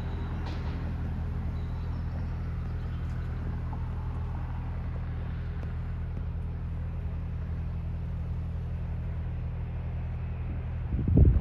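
Steady low engine drone, an even hum that holds one pitch throughout, ending with a loud gust of wind buffeting the microphone.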